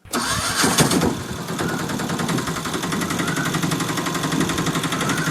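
A toy vehicle's small electric motor and gears running steadily with a fast, even rattle.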